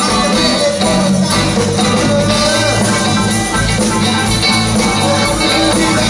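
A band playing a rock song.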